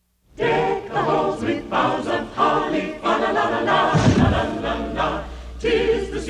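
A choir singing, starting suddenly just after the start, with a short low boom about four seconds in.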